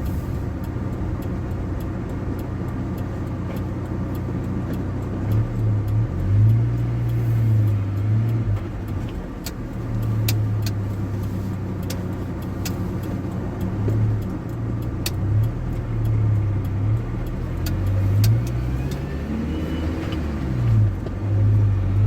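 GAZ Gazelle van's ZMZ-405 four-cylinder petrol engine running on the move, its note stepping and gliding up and down as the revs change several times. Scattered sharp clicks sound through it.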